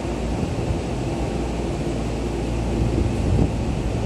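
Tokyu 5050 series electric commuter train pulling out of the station: a steady rumble of wheels on rail and running gear as the cars move past and away, with faint motor hum.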